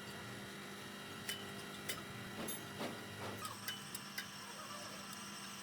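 Scattered sharp clicks and taps, about a dozen at uneven intervals, over a steady hum, from hand work on a truck's rear axle housing.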